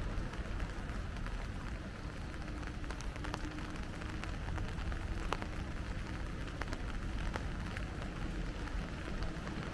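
Steady rain falling, with scattered sharp drip ticks over it and a low rumble underneath.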